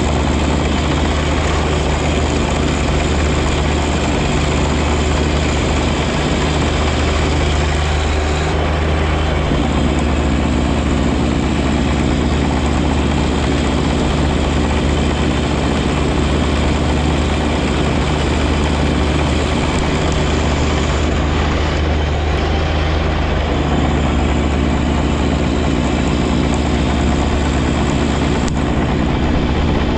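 John Deere 1025R compact tractor's three-cylinder diesel engine running steadily, with a loud continuous drone; the engine note shifts slightly a couple of times.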